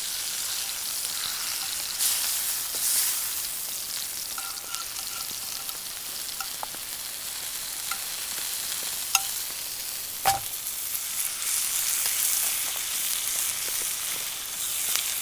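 Food sizzling in a hot pan, with a few sharp metal clinks of a utensil against the pan about nine and ten seconds in.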